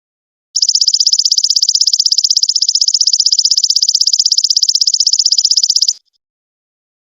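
Golden locust (belalang emas) insect calling: one high, rapidly pulsing trill of about five and a half seconds that starts about half a second in and stops abruptly near the end.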